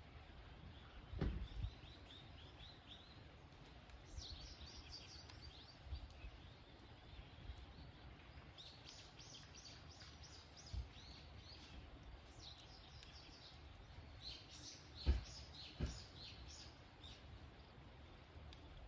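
Campfire burning with a faint hiss and a few low pops, the loudest about a second in and two more near the end. Over it run repeated high chirping trills, each made of quick falling chirps.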